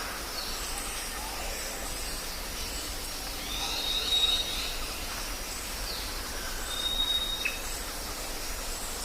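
Jungle ambience: a steady hiss with high, thin whistled calls rising out of it, one held call about four seconds in and another near the end, along with fainter short chirps.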